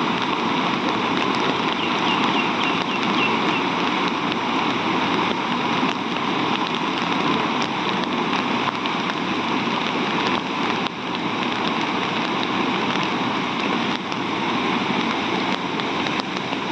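Heavy rain falling, a steady dense hiss of drops with many fine patters.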